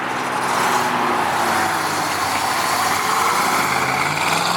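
Car engines running at low speed, with one engine rising in pitch near the end as it picks up speed.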